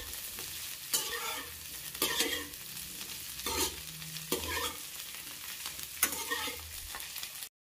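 Cauliflower florets frying in oil in a kadhai with a steady sizzle, as a perforated metal spatula scrapes the pan and turns them about once a second.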